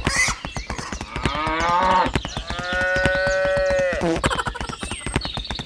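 Cow mooing twice, the second a long held moo, over backing music with a quick steady beat.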